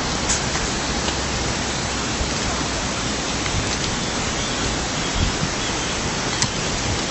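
Steady rush of water from a stream or small waterfall in a gorge: an even, unbroken noise.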